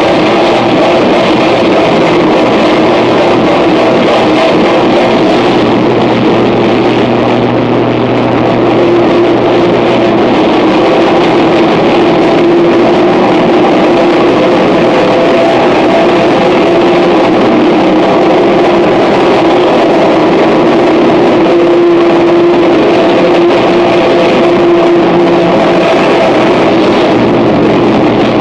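Harsh noise music: a loud, unbroken wall of dense noise with a few steady droning tones held underneath. A low hum comes in about six seconds in and drops out around ten seconds.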